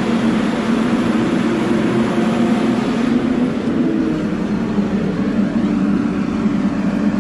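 A vehicle engine running steadily, a continuous low drone with an even rushing noise over it.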